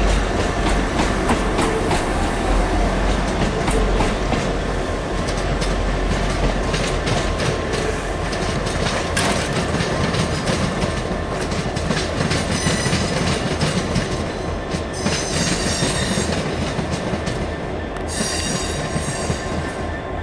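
Transport for Wales diesel multiple unit pulling away over curved junction pointwork, its engine rumbling as it goes. The wheels click over rail joints and points, and in the second half there are several short spells of high-pitched wheel squeal on the curves.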